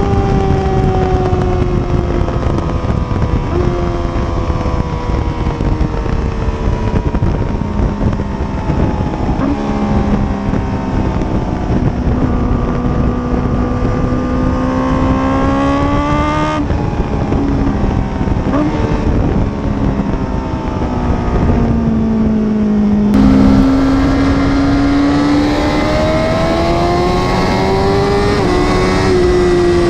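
Honda CBR1000RR-R SP's inline-four engine running hard. Its note slides slowly down and up and jumps in pitch several times, about every three to six seconds, over a rushing wind noise.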